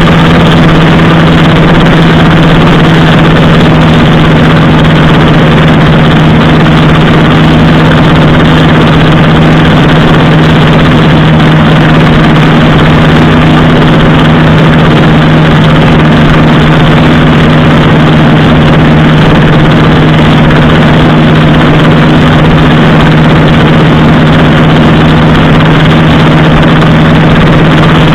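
Motorcycle engine running steadily at a constant pitch, a loud, even drone with no revving or gear changes.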